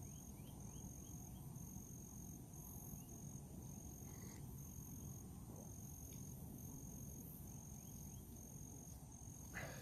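Faint insect chorus: a high-pitched trill pulsing in an even rhythm, over a steady high hiss of more insects and a low rumble of background noise. A few faint bird chirps come in near the start.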